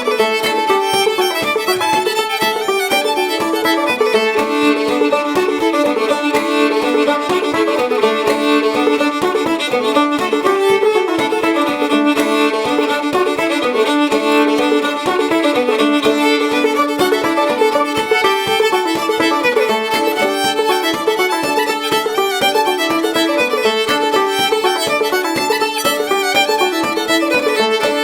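Old-time fiddle and clawhammer banjo playing a Kentucky fiddle tune together in D tuning: the fiddle carries the melody over the banjo's steady, rapid picking.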